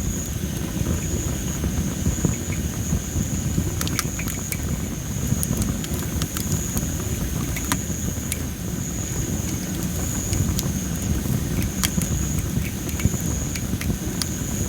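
A wood fire of well-dried masaki (Japanese spindle) firewood burning and crackling, with scattered sharp pops over a steady low rumble.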